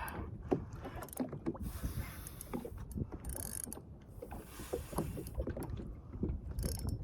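Choppy water knocking and splashing irregularly against the hull of a Sea-Doo Fish Pro personal watercraft, with brief gusts of wind hiss on the microphone.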